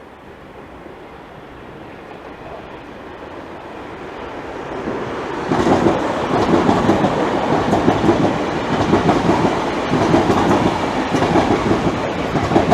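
Electric multiple-unit trains, a Class 321 and Class 315s, passing through the station. The rumble builds steadily as they approach. About five seconds in it jumps to a loud, rhythmic clatter of wheels over rail joints, which carries on to the end.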